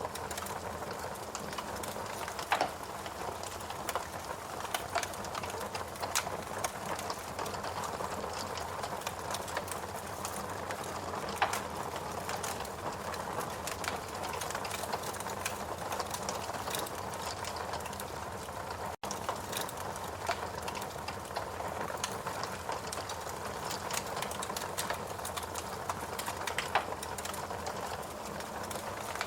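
Fireplace crackling: a dense run of small crackles over a steady hiss, with a few louder pops now and then.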